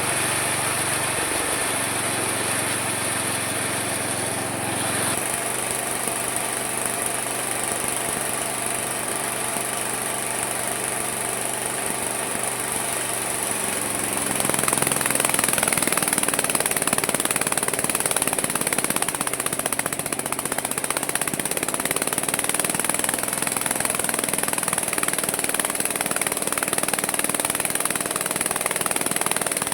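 Homemade mini sawmill running: a steady motor note that shifts about five seconds in, then grows louder and rougher about halfway through.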